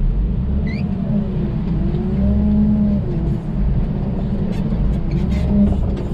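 Steady low rumble of a running engine, with a faint tone above it that rises and falls, and a few short clicks in the second half.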